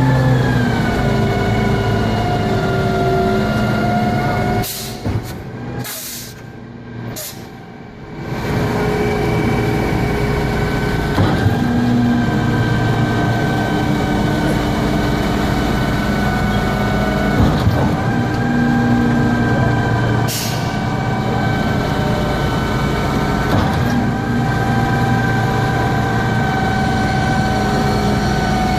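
Heavy truck diesel engine of a concrete pump truck running steadily, with short sharp hisses of air a few seconds in and again about twenty seconds in. The engine sound drops for a few seconds right after the first hisses, then comes back steady.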